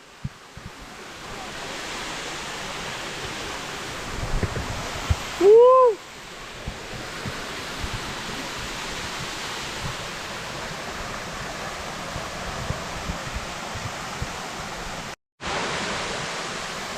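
Waterfall rushing steadily, with one short whooping shout about six seconds in. The sound cuts out for an instant near the end.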